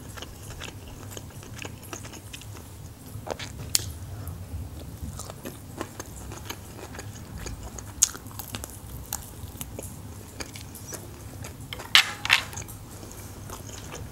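Close-miked eating: chewing with wet mouth clicks, and a few louder crisp bites, one of them into a battered fried shrimp about eight seconds in, the loudest pair near the end.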